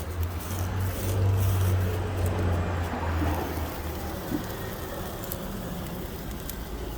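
A road vehicle passing close by: a low engine rumble with tyre noise that swells and then fades away about halfway through.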